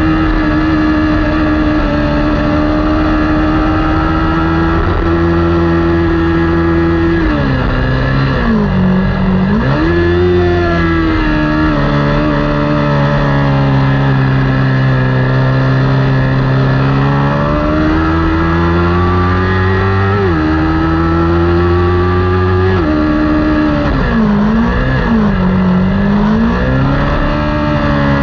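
Kawasaki Ninja 400 parallel-twin race engine running hard at high revs. Its pitch sags and recovers twice as the bike slows and accelerates again. It climbs steadily between gear changes, with two sudden drops about 20 and 23 seconds in as it shifts up.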